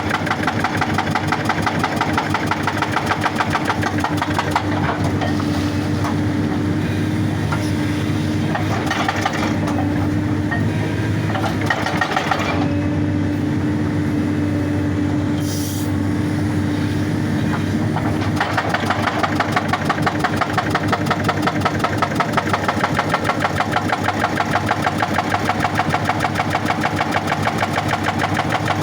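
Excavator-mounted hydraulic rock breaker hammering in rapid, even blows over the steady drone of the excavator's diesel engine. The hammering stops about four and a half seconds in, leaving the engine running with a few knocks, and starts again about eighteen seconds in.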